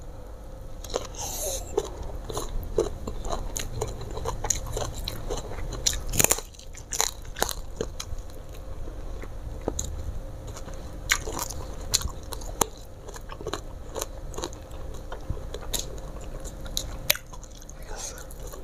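A person chewing a mouthful of fried tilapia and rice close to the microphone, with many small, irregular crisp crunches and one louder crunch about six seconds in.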